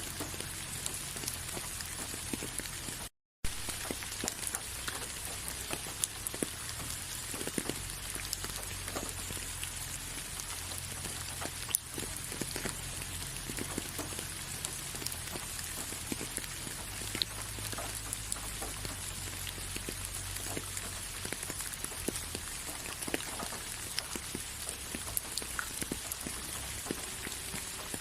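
Steady rain falling, many separate drops ticking over an even hiss. The sound cuts out completely for a fraction of a second about three seconds in.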